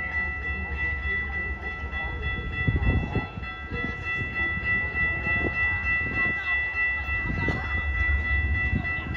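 Metra commuter train's diesel locomotive approaching from a distance, a low rumble that builds slightly toward the end. A steady high-pitched tone is held throughout.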